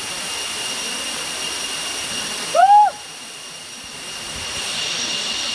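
Waterfall rushing: a steady wash of falling water, with a steady high-pitched whine above it.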